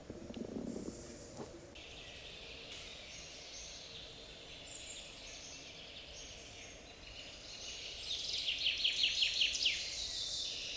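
Night forest ambience: a dense, high-pitched chorus of animal calls that sets in about a second in, with a run of rapid rhythmic pulses, about six a second, near the end.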